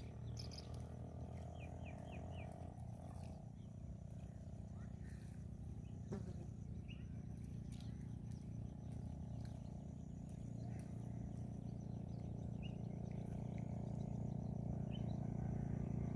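Birds giving short, scattered chirps over a steady low mechanical hum that grows slightly louder toward the end, with one sharp click about six seconds in.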